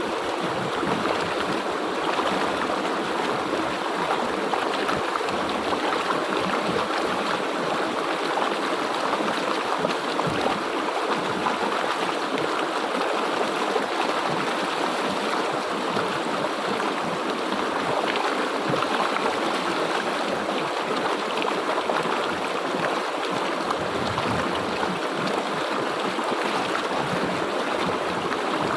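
A stream or small river flowing over rocks, a steady rushing and gurgling of water.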